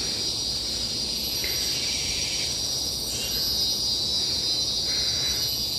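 Tropical forest insects calling in a continuous high-pitched drone, with softer pulsing calls coming and going underneath.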